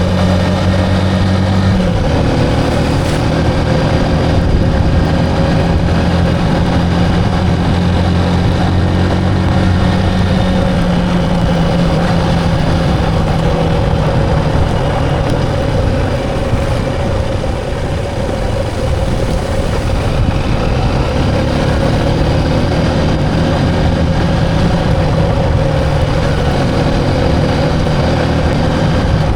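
Motorcycle engine running steadily while riding, its pitch shifting a few times as the speed changes.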